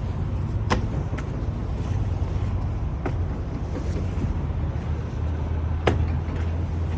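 Semi truck's diesel engine idling with a steady low hum, with a few sharp clicks, the loudest about a second in and near the end.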